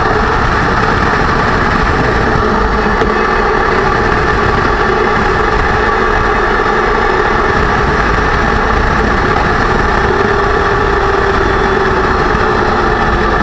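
2006 Range Rover Sport drivetrain under way: a loud, steady rumble with a whine from the freshly rebuilt differential, whose pitch sags slightly near the end. The owner suspects the pinion bearing preload was set too tight.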